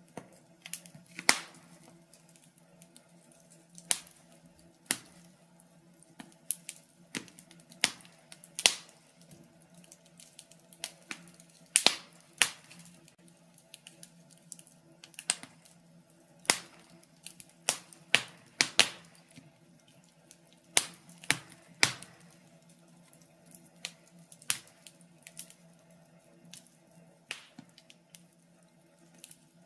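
Wood fire crackling in a fireplace: irregular sharp pops and snaps, scattered unevenly, over a faint steady low hum.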